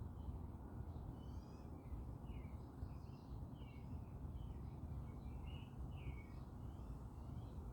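Small songbirds chirping, with many short, quick calls overlapping one another, over a steady low rumble.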